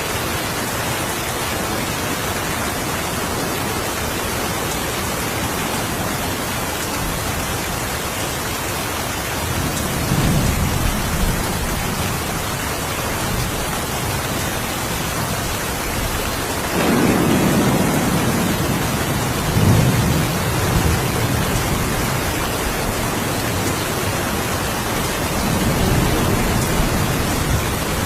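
Steady rain falling, with low rolls of thunder rumbling over it three times. The longest and loudest roll comes a little past halfway.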